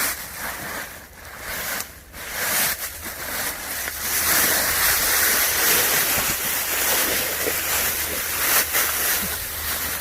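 Crinkling and rustling of a plastic survival bag as a person works down into it, over wind on the microphone. The noise is broken up for the first few seconds, then becomes a steady, louder hiss about four seconds in.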